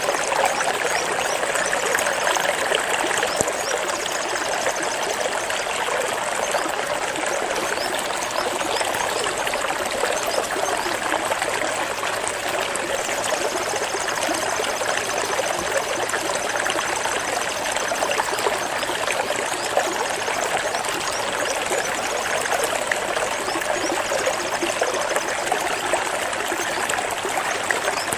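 Water flowing and trickling, a steady unbroken rush.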